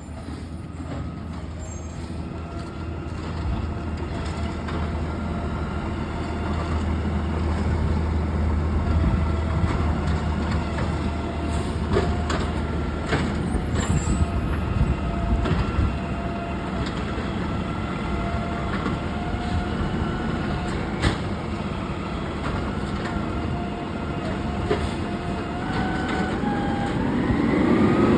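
Garbage truck's engine running, with a steady whine over it and a few sharp knocks. Near the end the engine revs up and the pitch rises.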